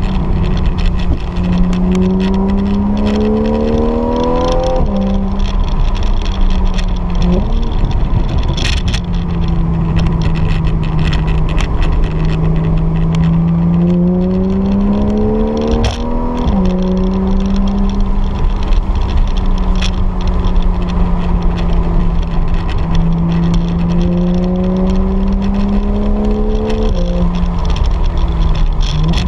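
Porsche 911 flat-six engine heard from inside the cabin, pulling under acceleration. Its note climbs slowly and then drops sharply several times, about five, sixteen and twenty-seven seconds in, as gears are changed.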